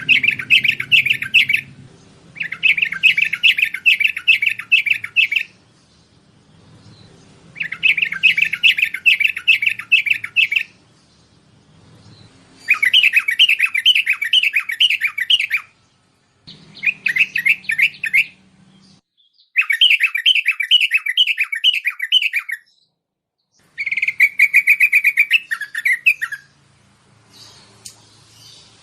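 Bulbul calling in repeated bursts of rapid chattering notes, about five notes a second. There are roughly seven bursts of two to three seconds each, separated by short pauses, and some bursts are runs of quick falling notes.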